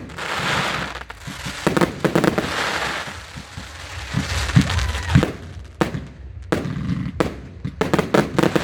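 Fireworks going off: a quick run of sharp bangs with crackling and hissing between them and a low rumble underneath.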